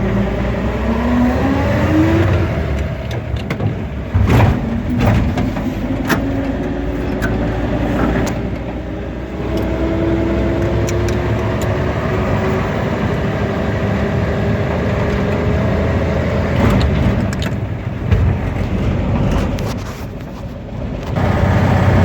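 A 1952 Ford F2's 215 six-cylinder engine pulling the truck away and going up through the gears of its three-speed manual. The engine note climbs at the start and again in a long rise through the middle, with breaks between them for the gear changes. A few sharp knocks come a few seconds in.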